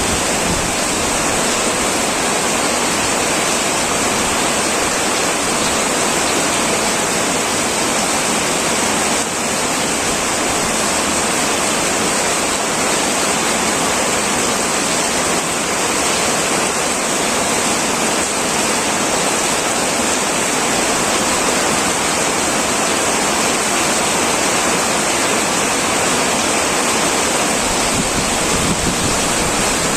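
Heavy rain pouring steadily on a tin metal roof, a dense unbroken hiss.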